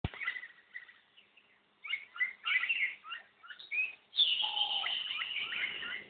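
Several wild birds chirping and calling in short, quick phrases; about four seconds in a long, steady high note sets in while the chirping goes on.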